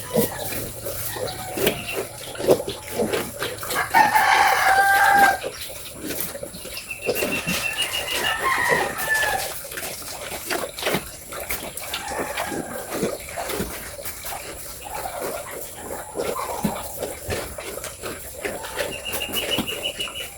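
A rooster crows once about four seconds in; this is the loudest sound. A second, weaker fowl call follows a few seconds later, over scattered clicks and knocks.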